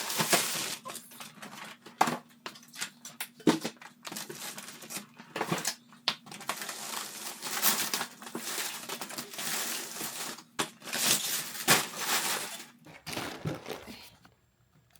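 Plastic packaging being handled, crinkling and rustling in irregular bursts, with a few sharp knocks; it stops about a second before the end.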